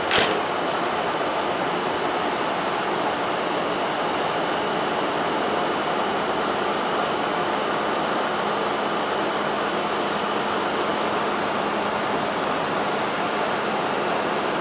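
Steady rushing noise of an electric passenger train standing at the platform, its ventilation blowers running, with one short sharp sound right at the start. A faint low hum joins about six seconds in.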